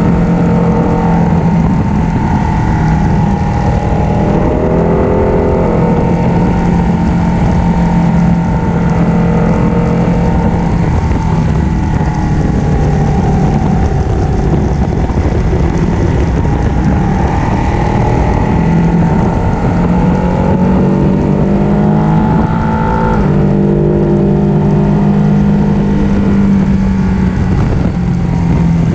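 Ducati 1299 Panigale's L-twin engine running under way, its note rising and falling several times as the rider works the throttle and gears.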